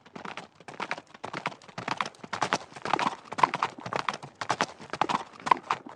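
Horse hooves clip-clopping on hard ground, several strikes a second.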